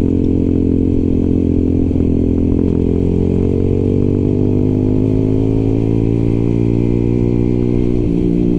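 Small single-cylinder 125 cc motorcycle engine running at a steady cruising speed, its pitch holding nearly even with only slight changes.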